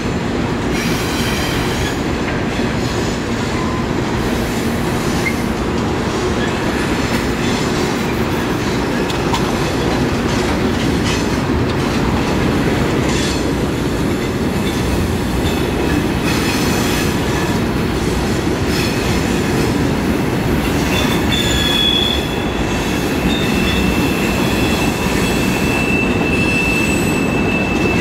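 Freight train cars rolling past: a steady rumble of steel wheels on rail with light clicking. From about three quarters of the way in, a thin, high wheel squeal joins and holds to the end.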